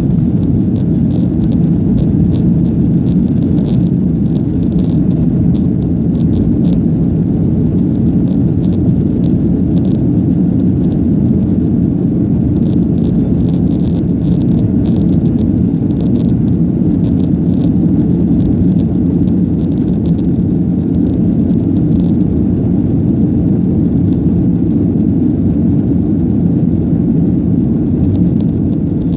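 Cabin noise of a Boeing 757-200 at takeoff power, heard inside the passenger cabin: its Rolls-Royce RB211 turbofans make a loud, steady low rumble, with light rattles of cabin fittings now and then.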